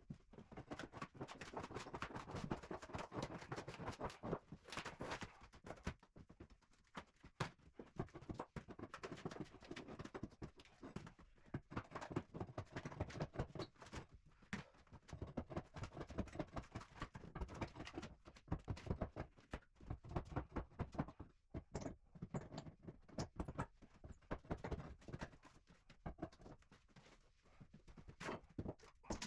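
Fibreboard sheets being pried and torn off wooden floorboards: a steady run of irregular knocks, cracks and scraping.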